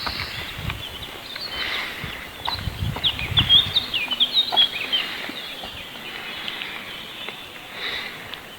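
Songbird singing a quick run of short high chirps and trills, loudest about three to five seconds in, with low thumps underneath in the first half.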